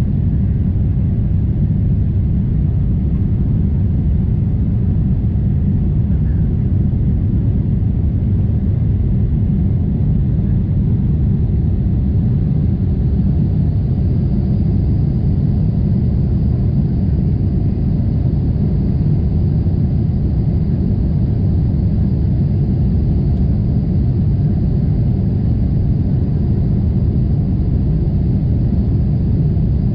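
Steady, deep cabin rumble of a Boeing 747-8 in flight: engine and airflow noise heard from a window seat, even throughout.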